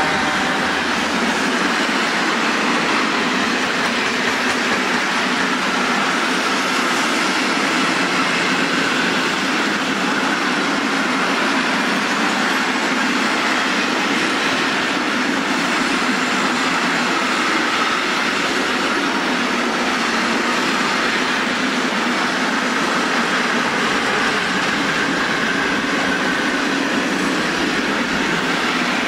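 Long freight train of open coal wagons rolling past: a steady rumble and rattle of wheels on rail.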